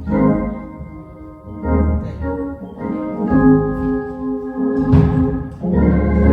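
Church organ playing sustained chords that change every second or two, with a sharp percussive hit about five seconds in.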